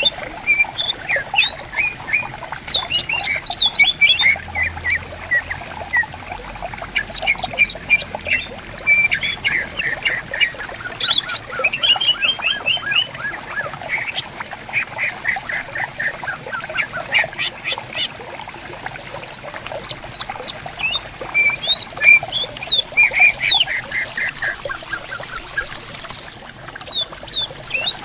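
Green leafbirds (cucak ijo) singing in quick runs of chattering and whistled notes, several birds answering one another, over the faint steady murmur of flowing water.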